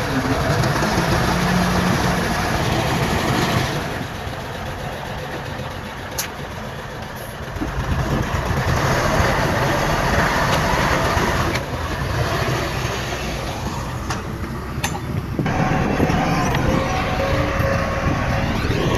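Diesel engines of heavy earthmoving machinery running under load, the sound easing off twice and building again, with a couple of sharp metallic knocks.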